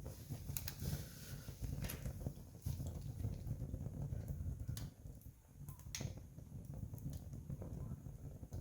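Wood campfire burning and crackling: sharp pops and snaps every second or so over a low steady rumble.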